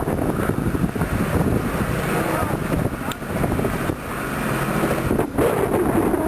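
Wind buffeting the microphone with a dense, low rumble, and faint voices in the background.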